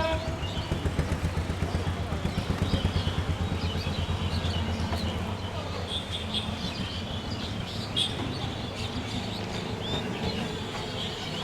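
Express train rumbling past with a fast, pulsing low rumble that is loudest in the first few seconds and then eases, while birds chirp.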